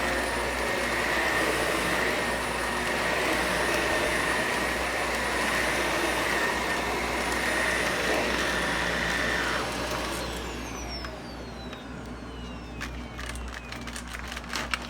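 Vacuum cleaner running steadily with a high whine, switched off about ten seconds in, its motor whine falling in pitch as it spins down. A run of sharp clicks and knocks follows near the end.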